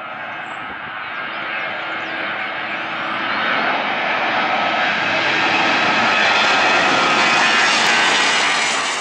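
Jet airliner's engines, growing steadily louder with a whine that slowly rises in pitch.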